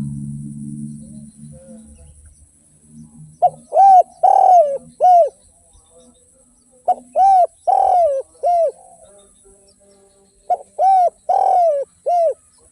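Spotted dove cooing: three phrases of four or five coos each, about three and a half seconds apart. A low hum fades out over the first two seconds.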